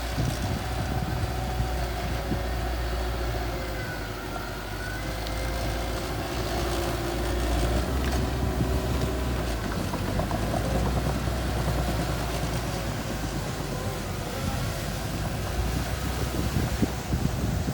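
Small bulldozer's engine running steadily under load, with a continuous low drone and some faint mechanical whine over it.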